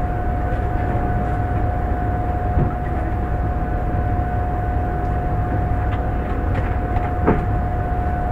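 Steady hum and low rumble of a Shinkansen train standing at the station, with a steady whine running through it. There are two soft knocks, one a little past two seconds in and a louder one about seven seconds in.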